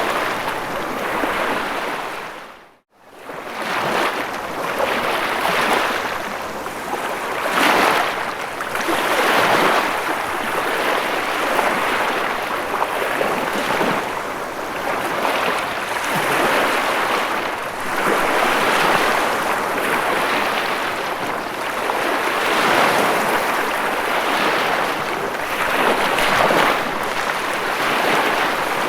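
Ocean waves washing in a continuous rush that swells and ebbs every couple of seconds. About three seconds in, the sound dips briefly to near silence and fades back up.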